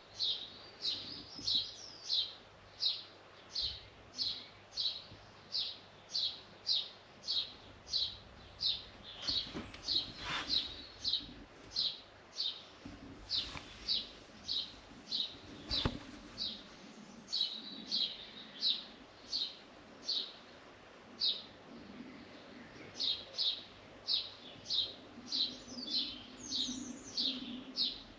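A small bird chirping over and over, about two short high chirps a second, with a couple of faint knocks in between.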